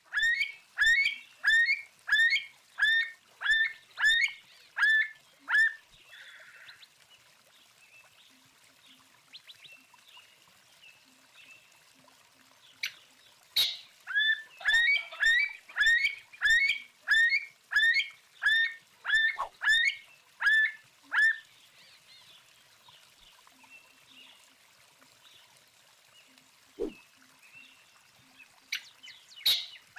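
A bird calling a series of sharp, hooked notes repeated about twice a second. It comes in two bouts with a pause between them, and a couple of sharp clicks fall in the gap.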